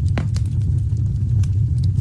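Wood fire burning with a steady low rumble, broken by sharp crackles and pops from the burning logs, one stronger pop just after the start.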